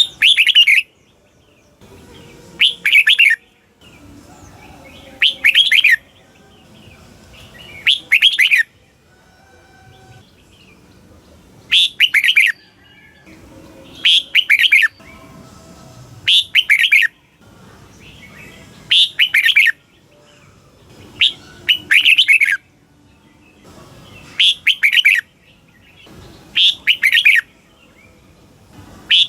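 Red-whiskered bulbul singing: short, loud phrases of a few quick notes, repeated about every two and a half seconds, about a dozen in all.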